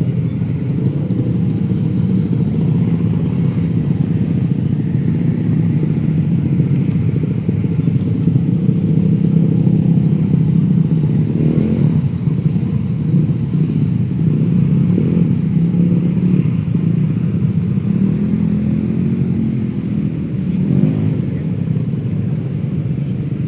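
City street traffic: a steady, loud, low rumble of motorcycles and cars passing close by.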